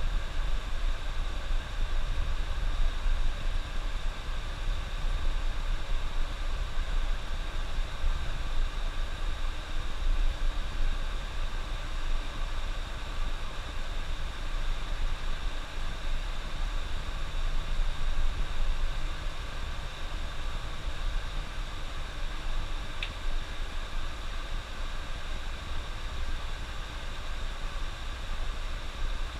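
Bus running along the highway, heard from the driver's cab: a steady low rumble of engine and road noise with a constant hiss. A single faint tick about two-thirds of the way through.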